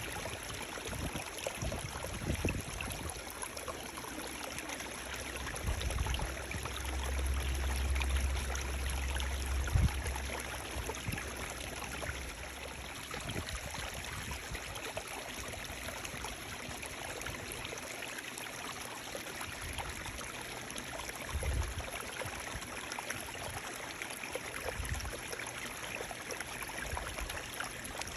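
Running water with a steady rushing sound. A low rumble swells for a few seconds about a third of the way in and ends in a knock, and a few short low thumps come later.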